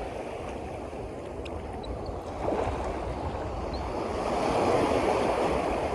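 Wind on the microphone over the wash of water, swelling and easing, with a few faint ticks about a second and a half in.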